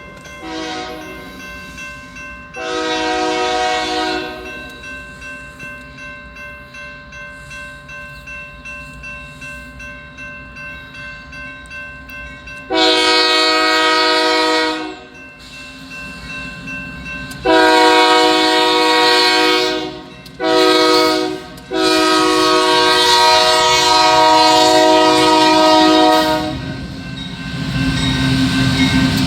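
A Union Pacific diesel locomotive's multi-chime air horn sounds over the steady rumble of the train. Two quieter blasts come early. Later, louder blasts go long, long, short, long: the standard grade-crossing warning.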